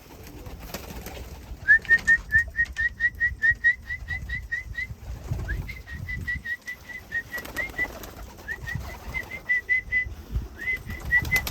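Runs of short, quick rising whistled chirps, about five a second, in four bursts: a pigeon keeper whistling to call a returned racing pigeon into the loft. Soft low thumps and rustling lie underneath.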